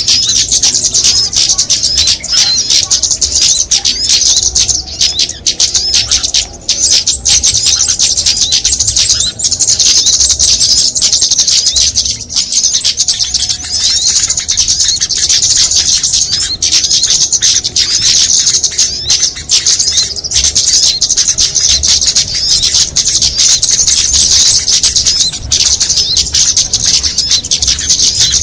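Dense, continuous, high-pitched chirping and twittering of many small songbirds at once, rapid notes overlapping without a break: a mixed-species bird-lure recording meant to draw small birds in.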